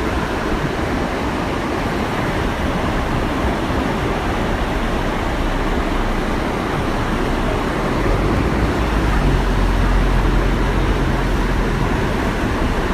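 Waterfall rushing steadily. A low rumble with a steady low hum swells in about two-thirds of the way through and fades a few seconds later.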